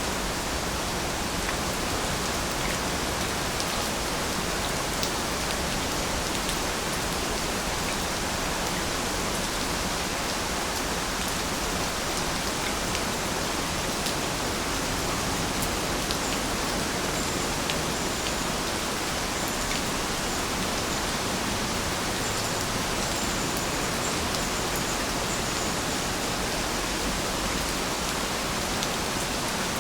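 Steady rain falling: an even hiss with scattered tiny ticks of individual drops.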